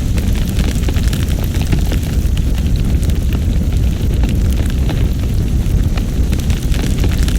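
Loud, steady blizzard wind with a deep rumble and scattered faint ticks and crackles over it.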